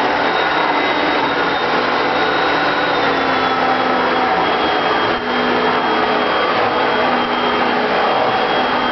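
Hoover Concept One upright vacuum cleaner running steadily, its motor a loud, even whine with a brief dip about five seconds in.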